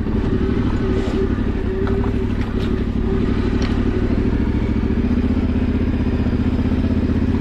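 Yamaha Ténéré 700's parallel-twin engine running at low, steady revs while riding off-road, with a few short clicks and knocks in the first half and a slight rise in revs after about five seconds.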